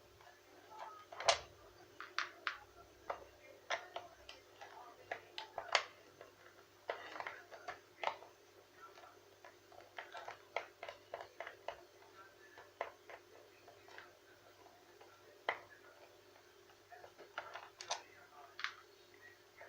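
Irregular sharp clicks and taps of small hard parts being handled, a few to the second with pauses, over a faint steady hum.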